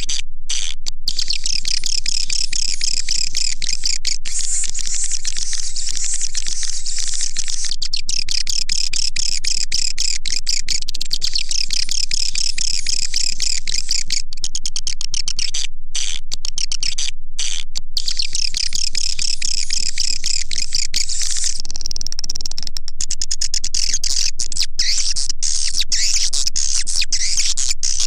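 Edible-nest swiftlet call track: a dense, continuous twittering of high chirps played as a lure sound for swiftlet houses, broken a few times by instant-long gaps.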